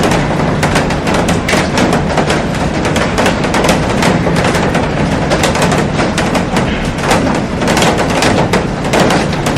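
Heavy rain falling on a glass roof and garden: a dense, steady hiss full of sharp taps from drops striking the glass.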